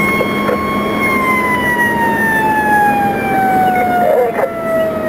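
Fire engine siren holding one steady pitch for about a second, then slowly falling in pitch, over a steady rush of vehicle noise.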